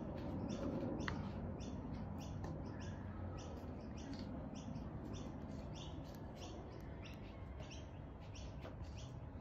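Pet budgerigars (budgies) chirping in their cage: a steady run of short, high chirps, about two to three a second, over a faint low room hum.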